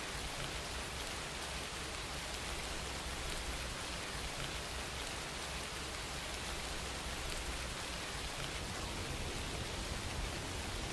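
Steady rain falling, an even hiss of raindrops with no change in strength.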